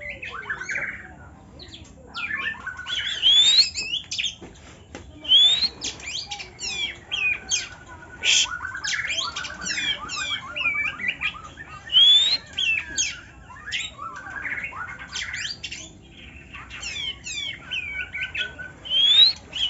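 Songbirds singing a long, varied song of loud rising whistles and rapid chattering phrases, coming in bursts every second or two.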